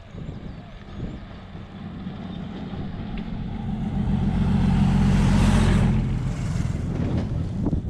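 A motor vehicle engine and road noise swell to a peak about five seconds in, then fade, as a vehicle passes close by.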